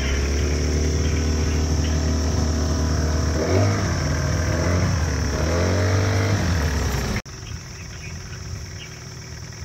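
Motor vehicle engine running steadily, its pitch dropping and climbing again twice as it revs. It cuts off abruptly about seven seconds in, leaving a much quieter outdoor background with faint chirps.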